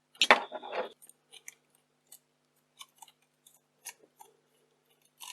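Small plastic and metal parts of a camcorder being handled and unscrewed during a teardown: a short burst of rattling and clicking about a quarter of a second in, then scattered light clicks and ticks.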